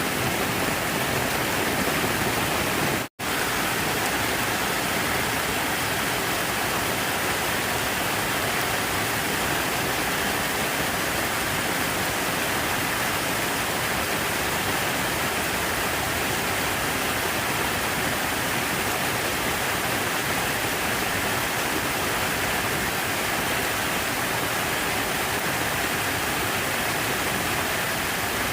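Steady rushing of falling water from an outdoor water feature, an even hiss with no rhythm. It cuts out for a split second about three seconds in, then resumes unchanged.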